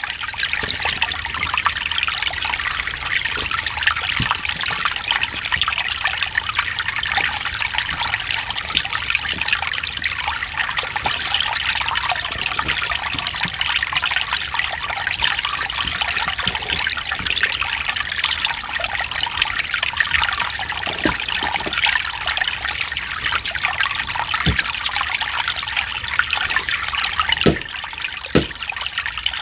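Mountain stream flowing and trickling over rocks: a steady rush of water with small splashes now and then.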